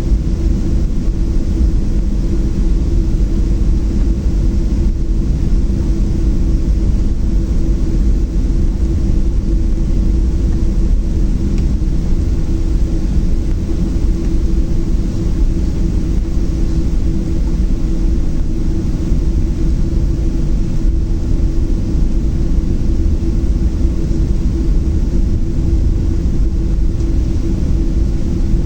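Boeing 737-700 cabin noise from the CFM56-7B engines and airframe, heard from inside the passenger cabin. It is a steady low rumble with a constant droning tone that does not change.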